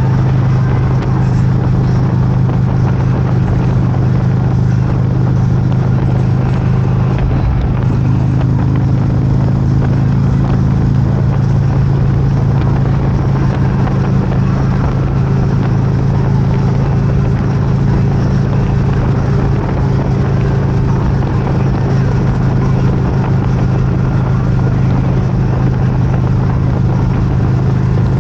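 Motorcycle engine running steadily at an unchanging speed, under an even rush of wind and road noise.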